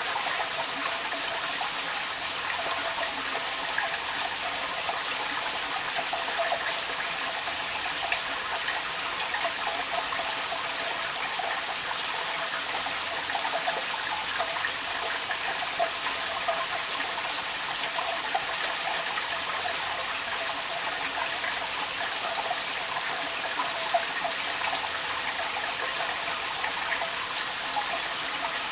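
Rainwater running and splashing out of a downpipe, a steady trickling stream with the patter of rain.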